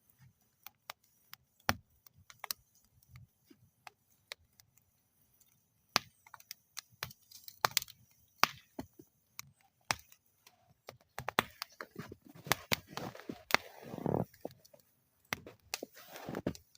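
Wood fire burning in a metal fire bowl, crackling with irregular sharp pops and snaps, sparse at first and becoming dense and busy with a hissing rush over the last few seconds.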